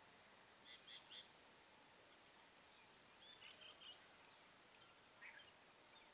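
Near silence with faint bird chirps in three short bursts, a little under a second, about three and a half seconds and about five seconds in, over a low steady hiss.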